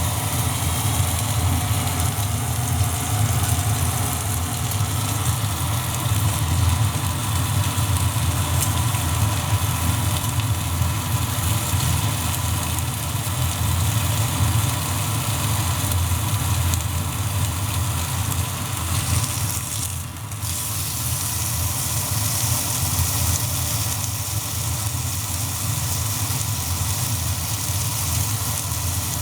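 Pork belly sizzling over a small wood fire, a steady dense hiss with fine crackle, over a continuous low rumble; the hiss briefly drops away about twenty seconds in.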